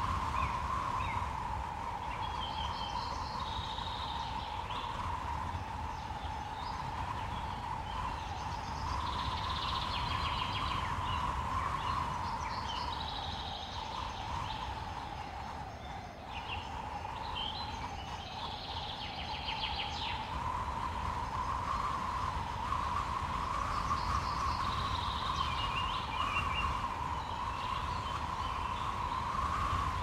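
Woodland birds calling in short clusters of high chirps every few seconds, over a steady hum and a low wind rumble.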